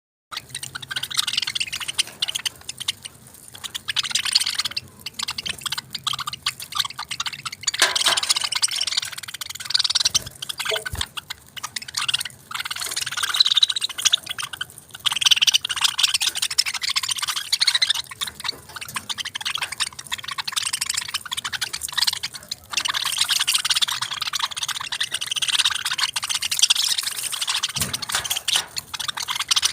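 Small pet parrots, budgies among them, chattering and chirping continuously, many quick overlapping chirps and warbles.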